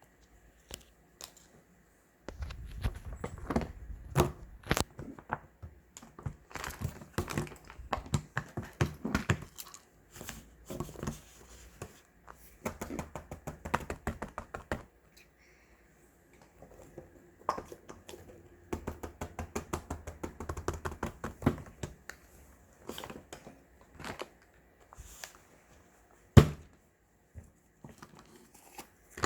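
Taped paper squishy toys being handled, crinkling and crackling in irregular bursts with short pauses, plus scattered taps and a sharp click near the end.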